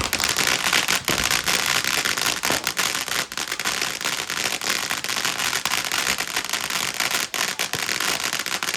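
Fireworks going off as a fast, dense crackle of many small pops, starting suddenly and keeping up without a break.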